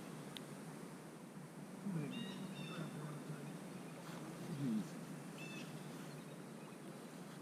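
Bird calls: short whistled notes about two seconds in and again about five and a half seconds in, over a faint steady outdoor background.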